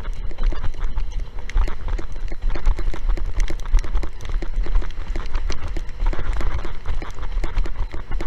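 Strong wind buffeting the microphone in a heavy low rumble, with rapid, irregular knocks and slaps throughout, typical of a windsurf board skipping over choppy water in strong wind.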